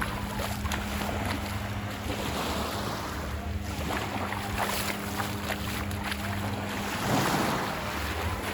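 Ocean surf washing onto the sand, with wind buffeting the microphone; a wave surges up loudest about seven seconds in.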